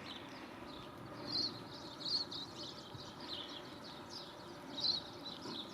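A flock of silvereyes (waxeyes) calling: many short, high chirps scattered throughout, one after another.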